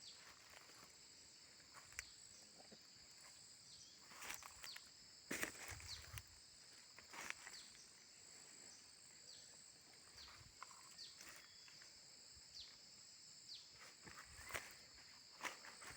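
Faint, steady high-pitched drone of a cicada chorus, with a few short downward chirps and occasional brief crunches or rustles.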